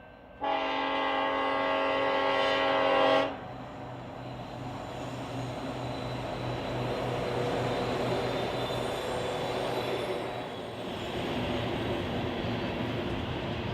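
A BNSF coal train's EMD SD70ACe lead locomotive sounds one long horn blast of about three seconds, starting about half a second in. Then its diesel engines keep roaring under load, lifting the heavy train upgrade as the locomotives and cars rumble past on the rails.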